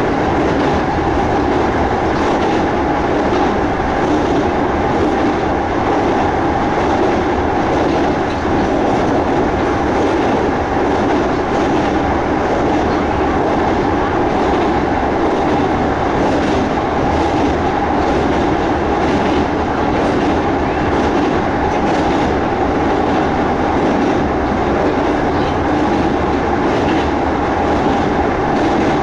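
Kintetsu 1200-series electric express running at speed across a steel river bridge, heard from inside the car: a steady, loud rumble of wheels on rail with faint clatter.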